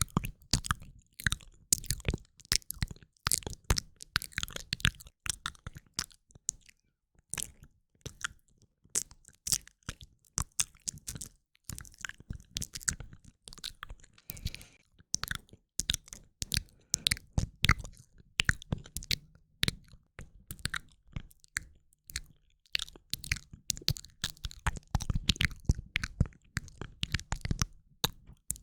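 A woman's ASMR mouth sounds, recorded close to the microphones and moving ear to ear: many short clicks in quick, irregular runs, with brief pauses between them.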